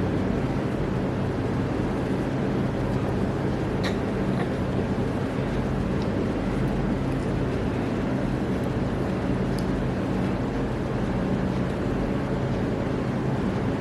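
Steady low machine hum over an even rush of air noise, unchanging throughout, with a few faint small ticks.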